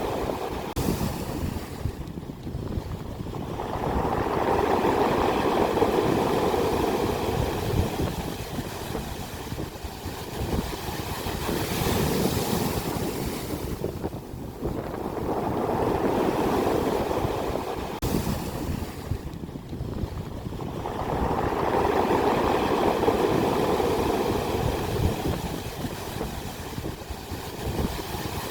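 Ocean waves breaking on the shore, the surf rising and falling back in slow, repeated surges.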